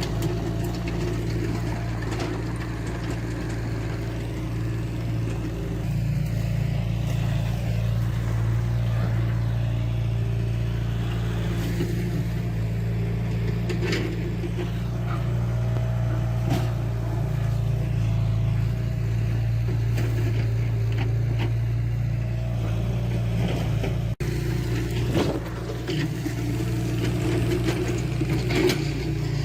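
Diesel engine of heavy earthmoving machinery running steadily under work, with scattered metallic clanks and knocks.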